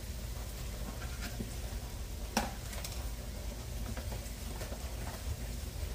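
Crumbled sausage and flour sizzling faintly in a skillet, with light handling noise from a plastic bag and a sharp click about two and a half seconds in.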